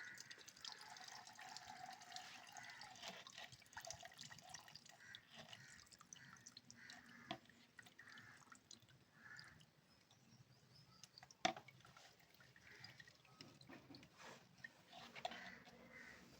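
Near silence: faint room tone with scattered small clicks and ticks, and one sharper click about two-thirds of the way through.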